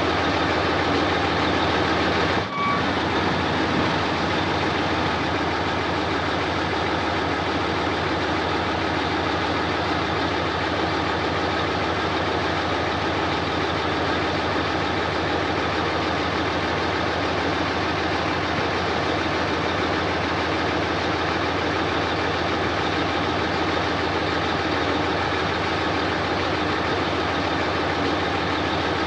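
Heavy diesel engine of earthmoving machinery running steadily, with a brief dip about two and a half seconds in.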